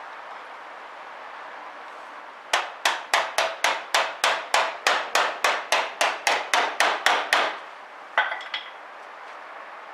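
Hammer striking sheet-metal bodywork: a fast, even run of ringing blows, about five a second for some five seconds, then a few more knocks about a second later.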